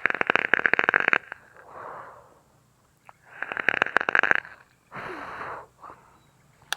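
Baitcasting reel whirring with a rapid ticking, in two bursts of about a second each, with softer hissing noises between them and a sharp click at the end.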